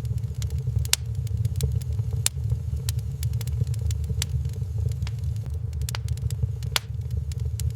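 Wood fire crackling in a fireplace: sharp, irregular pops and snaps, several a second at times, over a steady low rumble.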